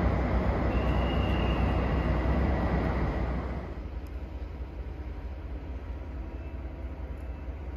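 Passenger train running on the rails: a steady rumble and rush of wheel and track noise, with a faint high whine in the first half. The noise drops to a quieter steady rumble about three and a half seconds in.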